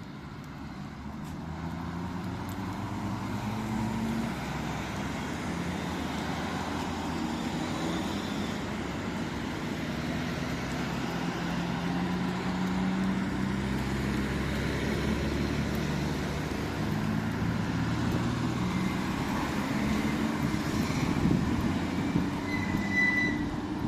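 Vehicle or machinery engines running steadily with pitch that drifts up and down, over general street noise, with a few louder knocks and a brief high-pitched tone near the end.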